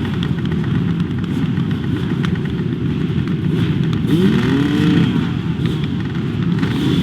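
Racing motorcycle engines running hard, with one engine's pitch rising and then falling about four seconds in.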